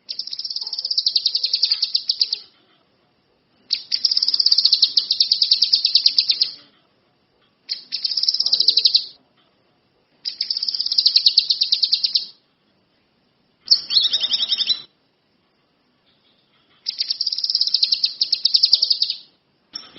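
A kinoi songbird singing in full voice: six bursts of a fast, high, evenly pulsed trill, each lasting one to three seconds, separated by short pauses.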